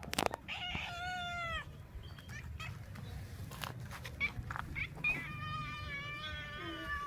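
Domestic cat vocalising at a bird it is stalking. A short arching meow comes about half a second in, and a longer, wavering call starts about five seconds in, with scattered clicks between.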